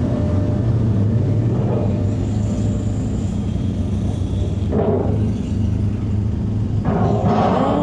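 BMW R1250GS Adventure's boxer-twin engine running at low speed, a steady low drone, with two brief louder rushes of noise, about five seconds in and near the end.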